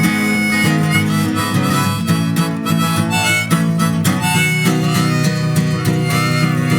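Harmonica solo over strummed acoustic guitar, playing held and bent notes in a country-folk instrumental break.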